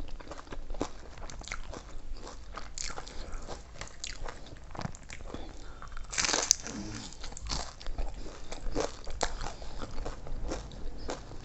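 Close-up chewing and crunching of crisp food, many small crackly bites in quick succession, with one louder bite a little past halfway.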